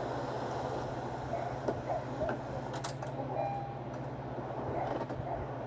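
A car engine idling with a steady low hum, a faint click about three seconds in.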